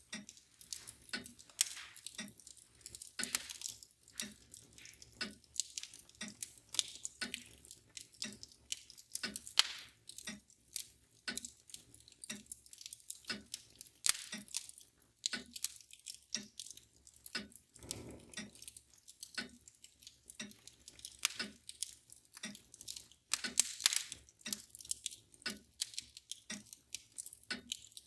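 Wood fire crackling with irregular pops and snaps of varying loudness, over the steady ticking of a mantle clock. A brief low rumble comes about two-thirds of the way in.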